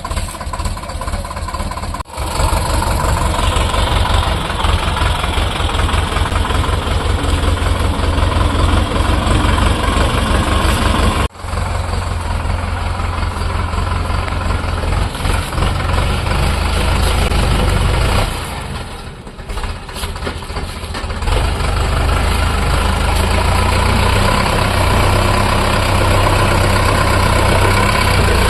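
Sonalika DI 750 tractor's diesel engine running with a steady low chug, broken by two abrupt brief gaps and easing off for a few seconds past the middle before picking up again.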